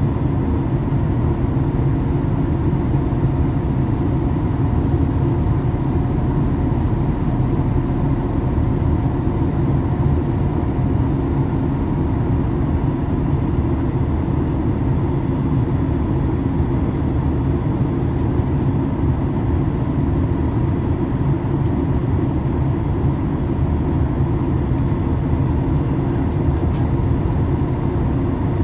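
Steady in-flight cabin noise of a Boeing 737 MAX 8 heard from a forward window seat: the low rush of airflow and the CFM LEAP-1B engines, with a few faint steady tones above it.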